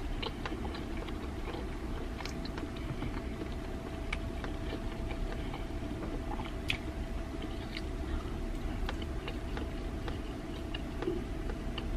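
Close-up mouth sounds of a person chewing pieces of bakso meatball: scattered small wet clicks and smacks over a steady low hum.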